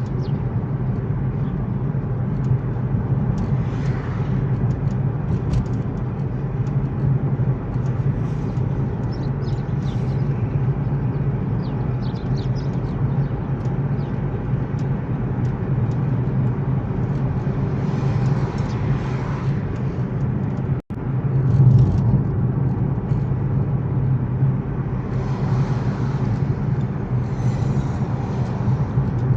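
Steady engine and road noise of a moving car, heard from inside the cabin, with a brief break about two-thirds of the way through.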